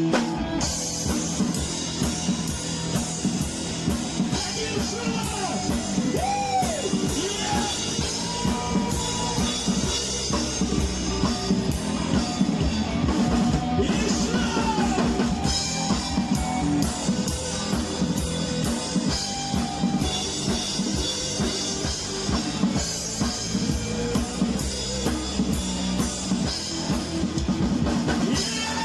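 Rock band playing an instrumental stretch of a song: drum kit keeping a steady beat under electric guitar, with notes bending up and down.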